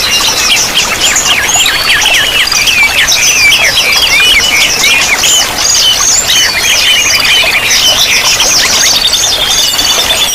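Several small songbirds singing at once in a dense, fast chatter of high chirps, quick falling sweeps and short trills, over a steady rush of running water.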